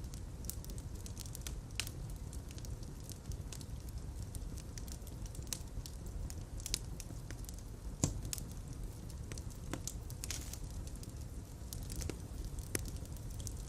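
Fireplace fire burning: a steady low rumble of flames with scattered crackles and pops, a louder pop about eight seconds in and another near the end.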